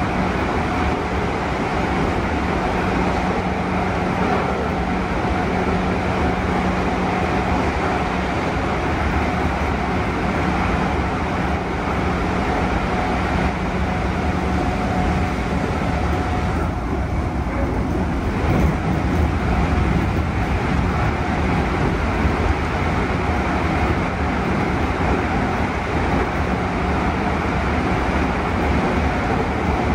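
Running noise inside a JR East 211 series electric train car: a steady rumble of wheels on rail, with a steady low hum underneath. The higher hiss dips for a couple of seconds about midway through.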